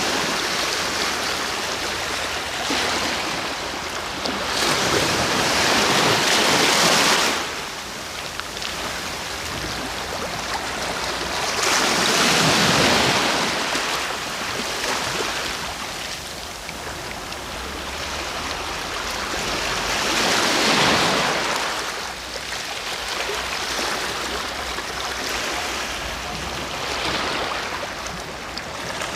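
Sea waves breaking and washing in, a loud surge of surf every six to eight seconds that swells and fades, over a steady low rumble of the sea.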